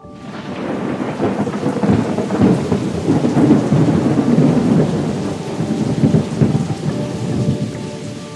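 Rolling thunder over steady rain, starting suddenly, building over the first two seconds and fading toward the end.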